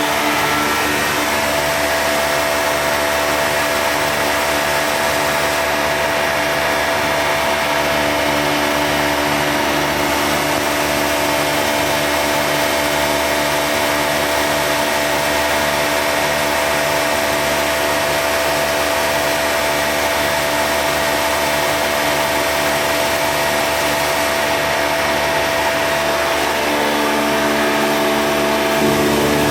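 Oil-sealed rotary vane vacuum pump running steadily, a continuous hum with hiss over it; its tone shifts slightly about ten seconds in and again near the end.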